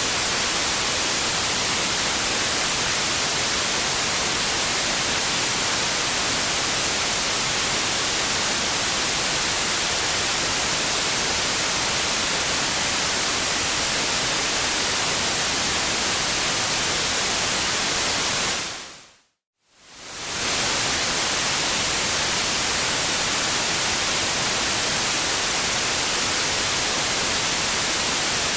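Steady white-noise hiss. About two-thirds of the way through it fades out to silence for under a second and fades straight back in.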